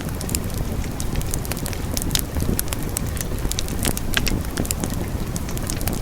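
Wood fire burning with frequent irregular crackles and pops over a low, steady rumble of flames.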